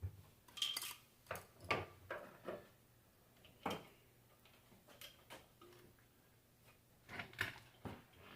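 Metal hand tools and alternator parts clinking and tapping on a workbench: scattered light clicks and knocks, with about ten of them spread irregularly.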